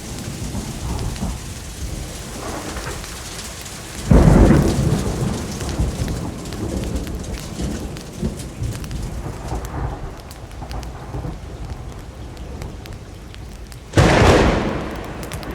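Steady rain falling, with two sudden loud thunderclaps, one about four seconds in and one near the end, each fading off as a rumble.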